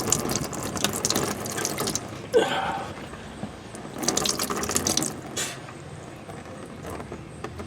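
Used engine oil pouring from the drain hole of a 2016 Chevy Silverado's 4.3 V6 into a drain pan, splashing unevenly as wind blows the stream about and it catches on the sway bar.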